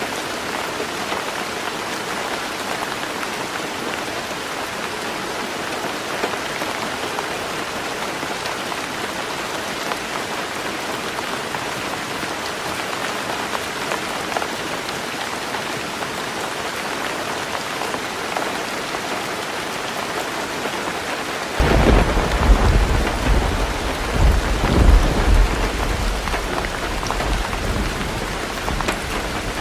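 Heavy rain falling steadily on a roof. About three quarters of the way through, thunder breaks in suddenly and rumbles for several seconds before fading.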